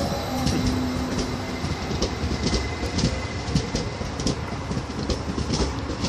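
Stadler FLIRT electric multiple-unit train rolling past, its wheels clicking over rail joints and points at uneven intervals over a steady rumble, with a short steady hum early on.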